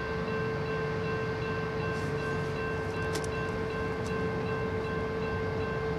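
Low rumble of an approaching CSX freight train led by a GE ES44AH diesel locomotive, under a steady pitched tone with fainter pulsing higher tones.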